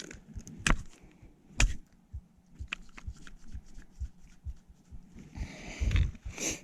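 Sharp knocks: two loud ones in the first two seconds, lighter ones after, and a rustling scuffle near the end. A freshly caught rainbow trout is being struck on the head to kill it.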